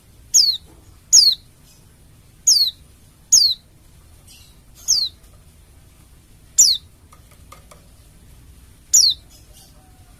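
Pleci (white-eye) calling: seven loud, high notes that each slide sharply down in pitch, spaced irregularly about a second or more apart, with fainter short chirps in between.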